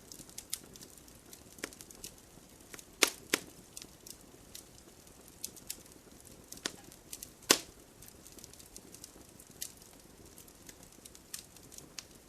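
Campfire crackling: irregular sharp pops and snaps over a faint steady hiss of burning wood, with the loudest pops about three seconds in and again about seven and a half seconds in.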